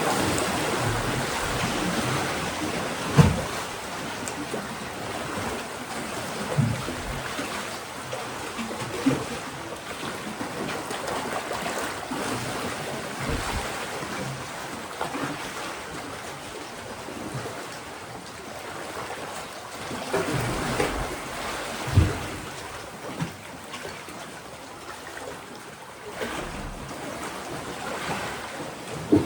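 Mediterranean sea waves washing steadily, with a few sudden low thuds of water striking, the strongest about 3 seconds in and near 22 seconds in.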